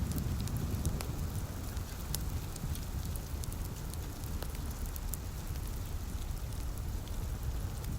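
Wood fire crackling with scattered sharp pops over steady light rain, with a low rumble underneath.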